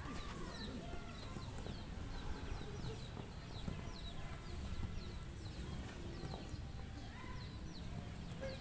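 Small birds chirping over and over: short, high, falling chirps, about two or three a second, over a steady low rumble with faint distant voices.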